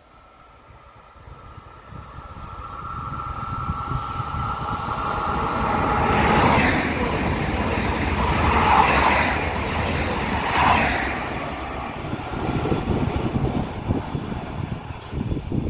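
Double-deck electric regional train passing through a station at speed. It builds from a faint approaching hum with a steady high ringing tone to a loud rush of carriages, with three louder surges as it goes by, then fades as it draws away.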